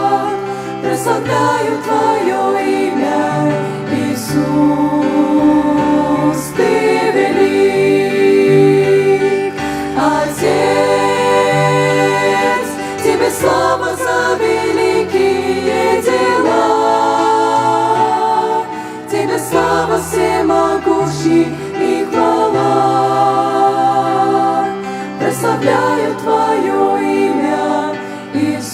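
A women's vocal group singing a Christian worship song in harmony over an instrumental accompaniment with a bass line that moves every second or two.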